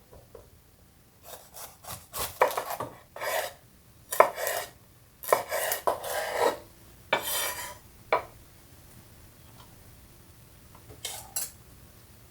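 Kitchen scraping and rubbing: a series of short strokes, densest between one and eight seconds in, with two more near the end.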